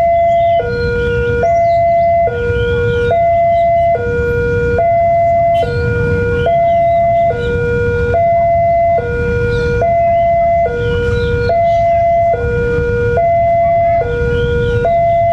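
Electronic two-tone warning alarm alternating steadily between a high and a low tone, each held just under a second, over a constant low rumble.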